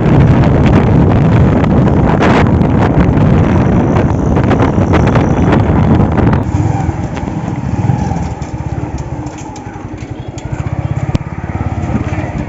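Two-stroke single-cylinder engine of a Suzuki Samurai motorcycle converted to a motocross bike, running loud with wind buffeting the microphone. About six seconds in it drops to a quieter, even pulsing as the engine runs slowly.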